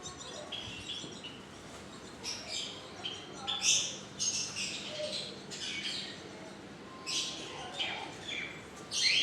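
Pet parrots chirping: a string of short, high chirps, some louder than others.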